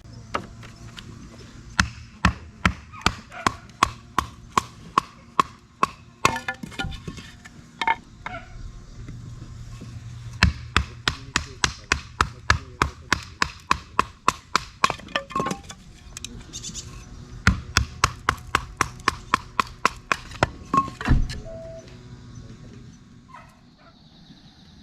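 Firewood being chopped for a campfire: runs of quick, sharp blade strikes on wood, about three a second, stopping and starting three times.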